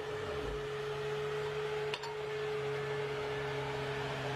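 A machine running with a steady hum, with a single sharp click about two seconds in.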